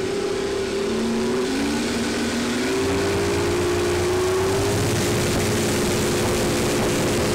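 Twin Johnson 200 hp V6 two-stroke outboards running with the boat under way, rising in pitch a second or two in and then holding steady, over a steady hiss.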